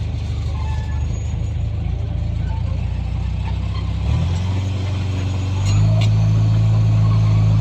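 Komatsu bulldozer's diesel engine running steadily; its note shifts about four seconds in and grows louder shortly before six seconds.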